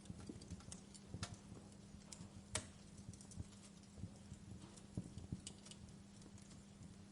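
Wood fire crackling: irregular sharp pops and snaps over a faint hiss, the loudest pop about two and a half seconds in.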